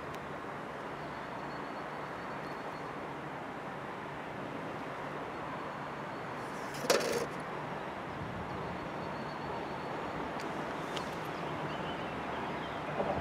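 Steady rumble and hiss of a freight train hauled by two Deutsche Bahn electric locomotives as it approaches. A single sharp clank comes about halfway through.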